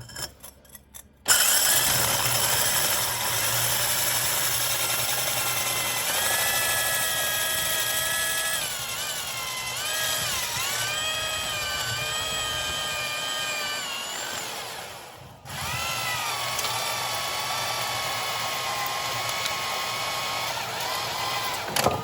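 Power drill running a 72 mm diamond core bit, cutting a hole for a socket box; the motor's whine wavers in pitch as the bit loads up. It starts about a second in, stops briefly around two-thirds of the way through, then runs again.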